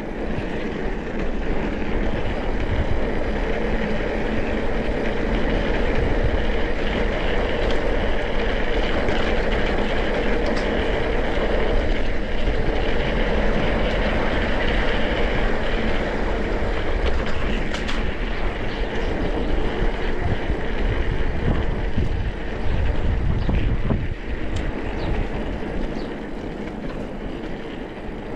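Wind rushing over the microphone and the rattle of a mountain bike riding a rough trail, with occasional sharp clicks and knocks. It eases off a little near the end.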